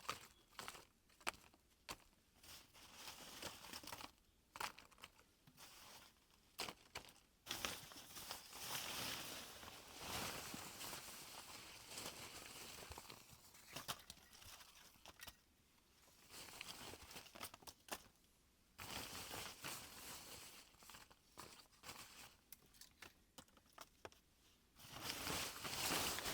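Faint rustling and crinkling with many scattered sharp clicks and snaps, coming in stretches with short quiet gaps between them.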